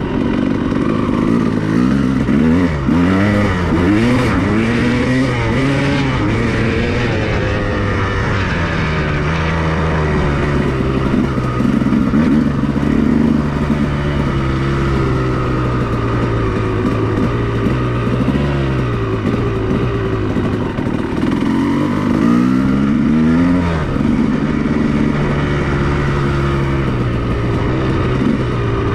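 2002 Honda CR250R's single-cylinder two-stroke engine being ridden, its revs swinging up and down through the gears. There are quick rev rises and falls a few seconds in and again about three-quarters of the way through, with steadier running in between.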